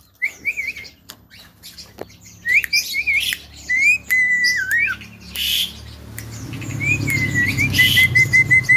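Javan myna whistling in short notes and slides, with clicks and a couple of harsh squawks, ending in a quick run of about seven short repeated notes.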